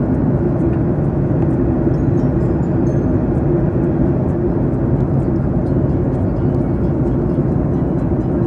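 Steady airliner cabin noise in flight: a constant low rush of engine and airflow noise with no change in level.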